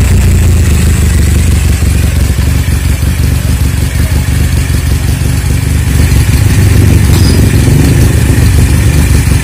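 Motorcycle 400cc parallel-twin engine, fitted to a Honda Tiger, running steadily; it gets a little louder about six seconds in.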